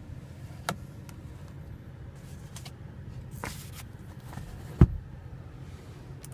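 Clicks and knocks of the car's sun visor and its vanity-mirror cover being handled, the loudest a single thump about five seconds in, over a steady low hum.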